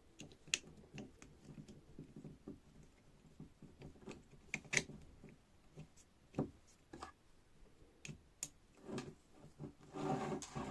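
Small hydraulic jack parts being handled and fitted during reassembly: scattered light clicks and taps of metal parts at irregular intervals, with a longer stretch of handling noise near the end.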